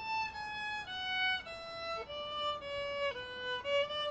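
Solo violin improvising a slow melody, one note at a time, each held about half a second, stepping mostly downward.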